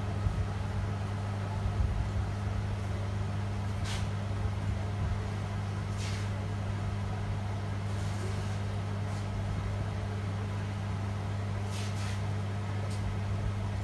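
Steady low electrical hum with a second, fainter tone above it, and a few faint ticks.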